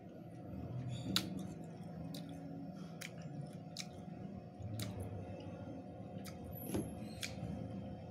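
A person chewing raw banana-stem pith close to the microphone: wet, crunchy chewing with scattered sharp mouth clicks and smacks, over a steady low hum.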